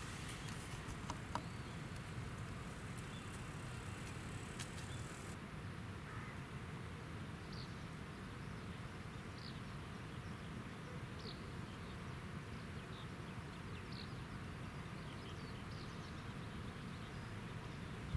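Steady outdoor riverside background noise with a thin high whine in the first five seconds, then faint short high chirps every second or two.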